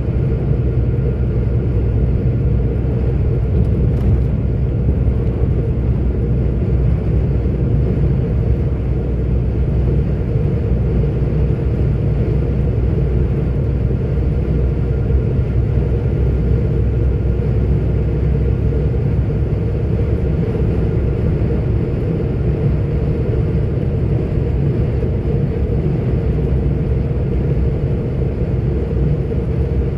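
Steady engine and road rumble of a 44-tonne articulated truck cruising, heard from inside the cab.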